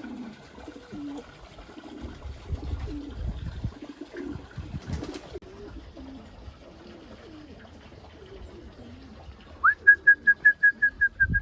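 Racing pigeons cooing in the loft, low and wavering. Near the end comes a loud, rapid run of about a dozen high pips at one pitch.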